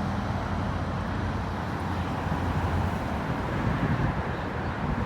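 Outdoor ambience: a steady low rumble with wind buffeting the microphone, the gusts growing stronger from about two seconds in.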